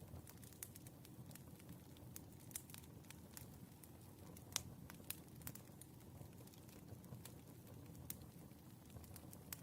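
Wood fire burning, a low rumble with irregular crackles and small pops, the sharpest pop about four and a half seconds in.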